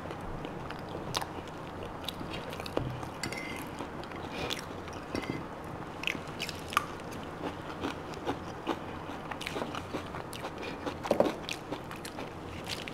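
Close-miked chewing and biting of food, with scattered clicks and scrapes of a fork against a plate.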